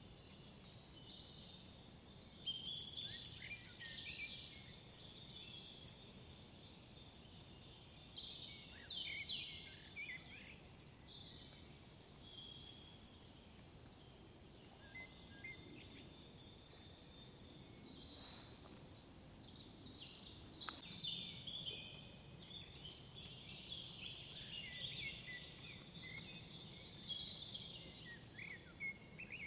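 Several songbirds singing in woodland, with overlapping chirps and short trilled phrases throughout. A faint low background rumble runs underneath.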